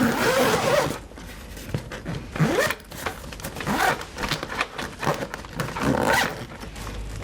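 Zipper on a storage case for a fire pit being pulled closed in several short pulls.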